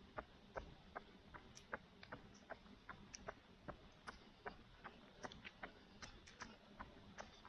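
Faint running footsteps on a road, an even beat of about two and a half steps a second, with a few lighter ticks between them.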